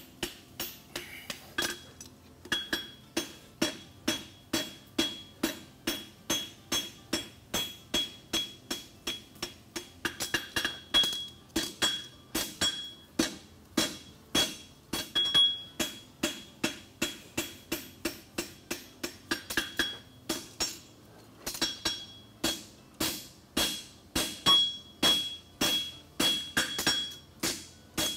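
Farrier's hand hammer striking a hot steel horseshoe branch on an anvil, about two to three blows a second, with the anvil ringing between blows as the branch is forged narrower.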